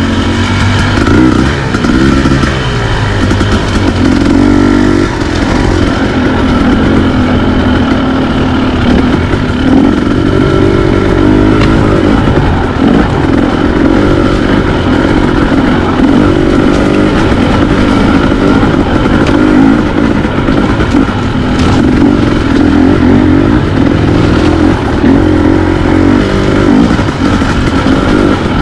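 Dirt bike engine running loudly under way, its pitch rising and falling over and over as the throttle is opened and closed.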